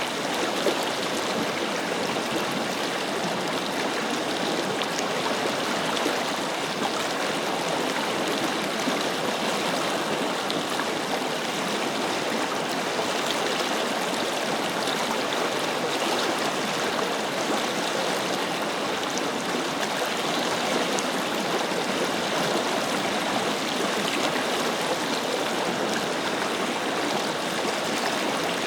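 A forest river flowing steadily, its water rushing and splashing over stones.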